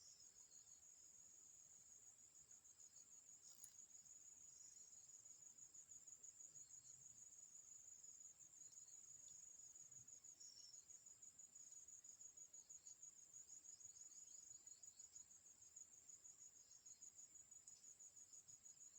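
Faint, high-pitched insect chirring: a rapid pulsing trill that runs without a break.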